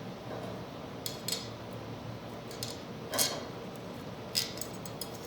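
Small metal clicks and clinks as a #10-32 machine screw, lock washer and nut are handled and fitted into a hole in a ceiling fan's metal mounting part: a few sharp, irregularly spaced ticks.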